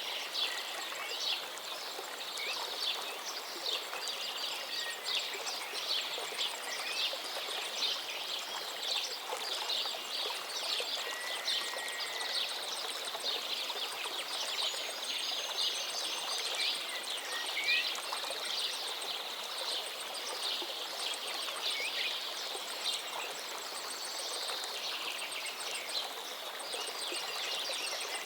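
River water babbling and splashing steadily, with a few short bird whistles scattered through it.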